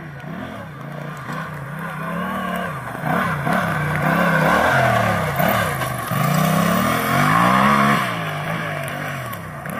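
A tractor's Yamaha engine revving up and down over and over. The revs swing several times, and it grows louder about three seconds in.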